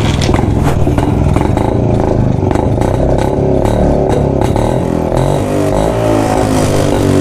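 1972 Jawa 250cc single-cylinder two-stroke motorcycle engine running, its pitch wavering up and down. Sharp ticks come about twice a second for the first four seconds or so.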